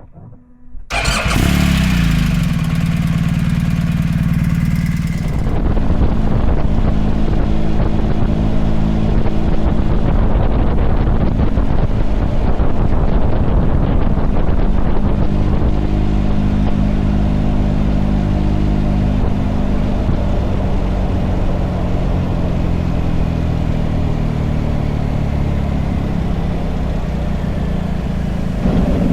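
Motorcycle engine starting up about a second in and running steadily for a few seconds, then the bike under way, its engine note shifting with speed under a broad rush of road and wind noise.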